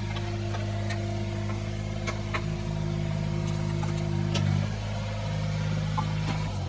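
Yanmar B22 mini excavator's diesel engine running steadily, with a few sharp ticks. It starts to wind down right at the end, as if being shut off.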